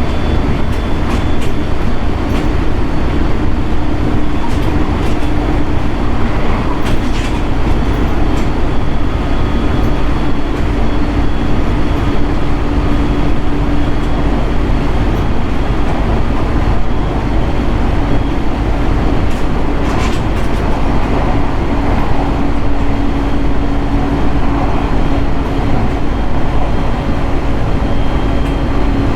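Running sound of a JR East 701 series 1000 subseries electric multiple unit heard from inside the car at steady speed. A constant rumble of wheels on rail carries a steady hum, with a few clicks from rail joints.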